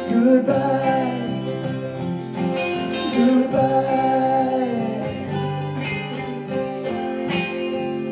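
Live band playing a song's closing instrumental passage: acoustic guitar under a lead guitar playing sliding, bending melody lines.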